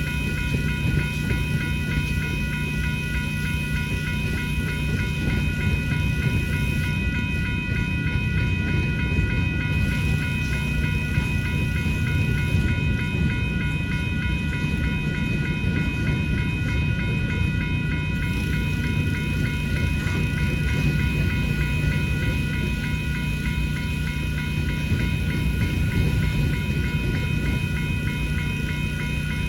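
Manifest freight train rolling through a grade crossing, with the crossing bells ringing rapidly and continuously over the low rumble of the cars. A steady generator hum runs underneath.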